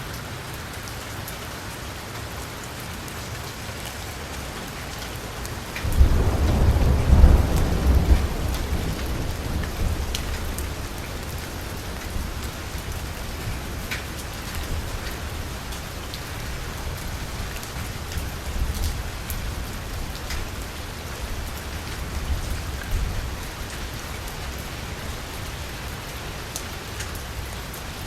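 Heavy rain falling steadily on a car's window and roof, with fine drop ticks. About six seconds in, a loud clap of thunder breaks in and rumbles off over several seconds, with fainter rumbles later on.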